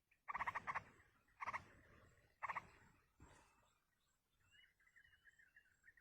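Yellow-vented bulbuls calling at the nest during feeding: three loud, rough, rapidly pulsed calls in quick succession, then a fainter one. A softer, wavering twitter runs through the last couple of seconds.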